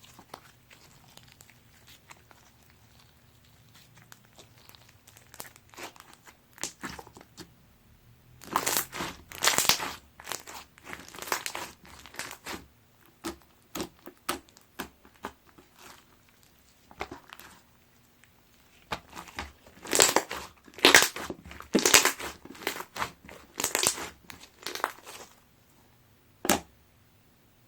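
Slime full of fishbowl beads being squeezed and pressed by hand, giving crunchy, crackling clicks in bunches, with quiet pauses between them and one sharp snap near the end.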